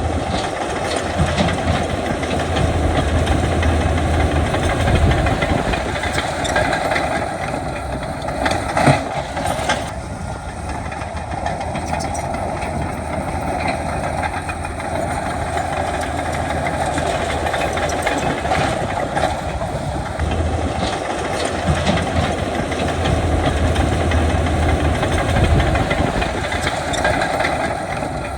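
Heavy diesel earthmoving machinery running steadily under load, a deep engine rumble with scattered metallic clanks and knocks.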